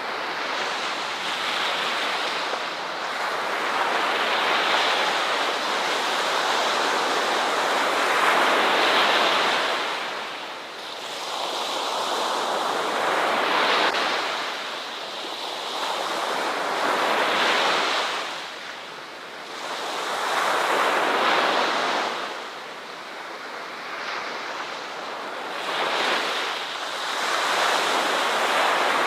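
Ocean waves breaking and washing on a beach: a continuous hiss of surf that swells and falls every few seconds as each wave comes in and draws back.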